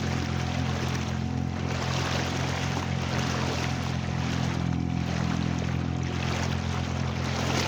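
A boat's engine running at a steady speed under way, its low drone unchanging, over a constant rush of water along the hull.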